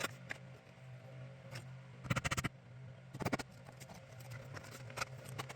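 Scraping and clicking of vinyl siding being handled and fitted, with a quick run of rapid clicks about two seconds in and another shorter one about a second later, over a faint steady hum.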